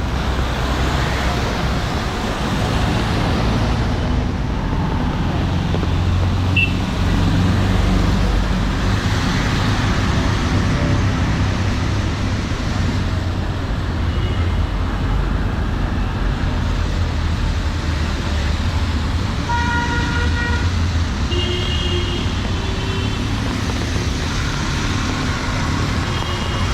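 City street traffic: a steady rumble of passing engines and tyres, with several short vehicle horn toots, the clearest about two-thirds of the way through.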